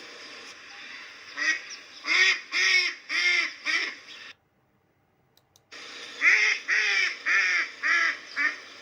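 Duck quacking in two runs of about five quacks each, with a second and a half of silence between them.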